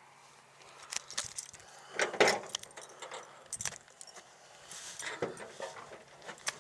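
Keys jangling and small clicks and clatters from handling, in irregular bursts, the loudest about two seconds in.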